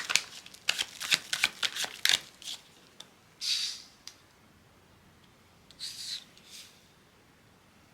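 Tarot cards being shuffled: a quick run of crisp card snaps for about two seconds, then two soft swishes of cards sliding, a little after three seconds and again around six seconds.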